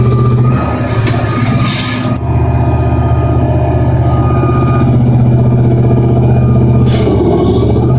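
Heavy mining machine's engine running steadily with a deep hum, with a loud hiss lasting about a second and a half near the start and a brief one near the end.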